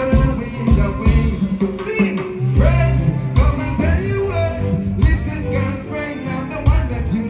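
Live reggae band playing, with a heavy bass line and drums, and a man singing over it, heard through the concert sound system.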